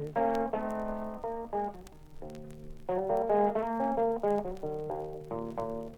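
Blues guitar playing an instrumental fill of picked single notes between sung lines, thinning out for a moment about two seconds in before the runs pick up again.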